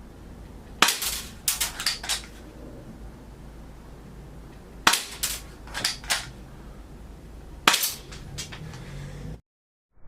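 Toy gun firing toy bullets: three groups of sharp snaps about three seconds apart, each a loud crack followed by a few lighter clicks. The sound cuts off abruptly near the end.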